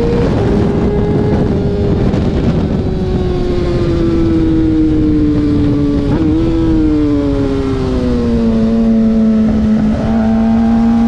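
Sport motorcycle engine running hard under way, its pitch falling slowly and steadily, with heavy wind rush over the microphone.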